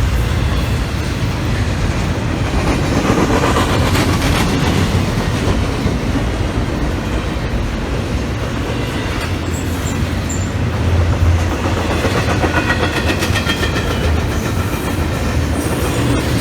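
CSX intermodal freight train rolling past: a steady low rumble of the cars, with the wheels clacking over the rails.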